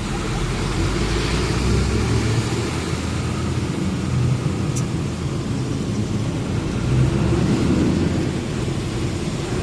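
Truck engine running under way, with road rumble: a steady low drone that holds even throughout.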